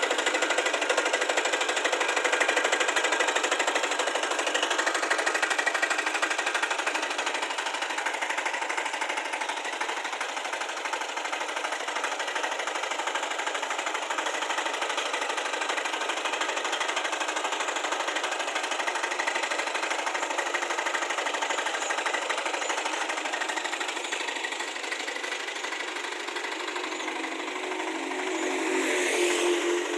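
Diesel engine of a power weeder running steadily, a little quieter after the first several seconds.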